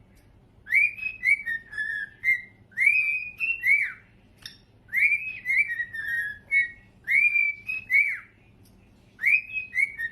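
A parrot whistling a short tune of rising and falling notes. The same phrase is repeated several times with brief pauses between.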